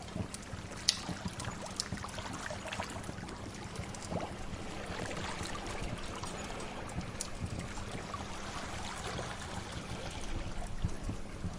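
A steady wash of sea waves with the sharp crackles and pops of a wood fire scattered over it.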